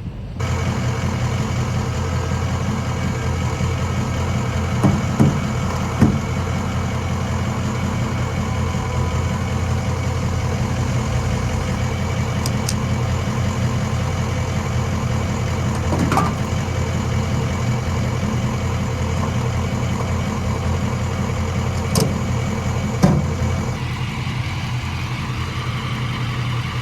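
2004 Ford F-250's 6.0 L Power Stroke V8 turbo-diesel running steadily, with a few sharp clicks along the way.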